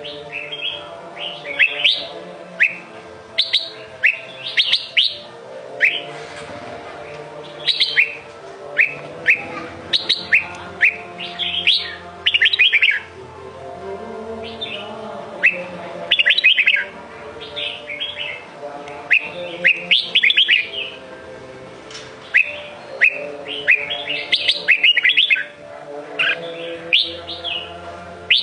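Red-whiskered bulbul singing: short, bright whistled phrases repeated in quick bursts with brief pauses between them.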